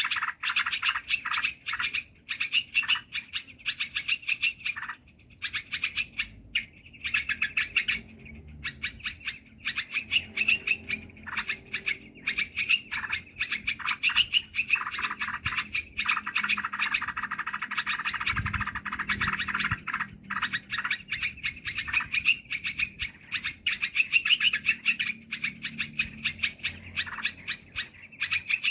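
Dense, rapid bird chirping and chattering, almost continuous with a few short breaks, the kind of call used to lure bulbuls into a trap.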